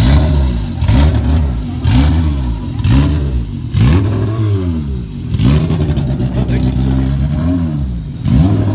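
A car engine revved over and over: about eight throttle blips, each a sharp rise and fall in pitch, each opening with a crack.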